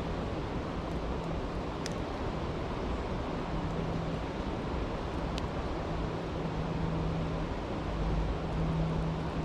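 Steady rushing of a stream, with two sharp pops of a crackling campfire, one about two seconds in and one a little past the middle.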